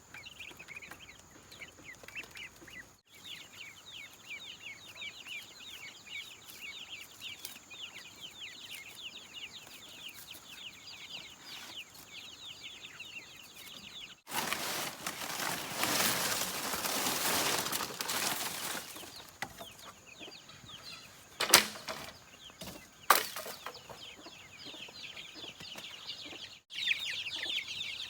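A flock of chickens calling, many short high chirps overlapping without a break. About halfway through there are several seconds of wing flapping, followed by two sharp knocks.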